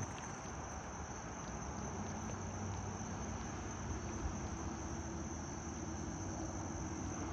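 Steady high-pitched chirring of crickets, with a low steady hum joining about two seconds in.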